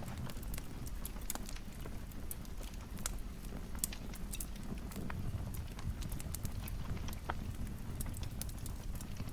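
Wood fire crackling: irregular sharp pops and snaps, several a second, over a low steady rumble of burning.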